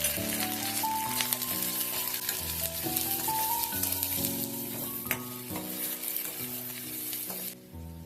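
Food frying in hot oil in a pan for a crab curry: a steady sizzle with crackles and stirring, which cuts off suddenly about seven and a half seconds in. Soft background music with gentle melodic notes plays underneath.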